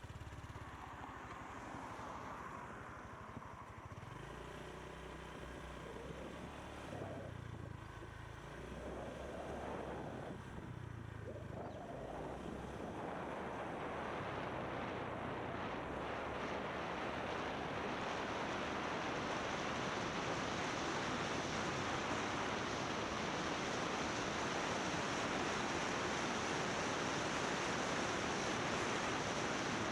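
Motorbike engine running, its pitch rising and falling over the first dozen seconds. Then wind rushing over the microphone covers it and grows steadily louder.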